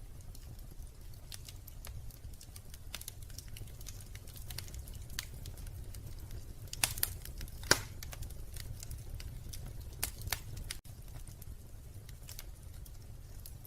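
Wood fire crackling in a fireplace: a steady stream of small snaps and ticks over a low rumble, with a few louder pops, a cluster a little before halfway and two more about three-quarters of the way in.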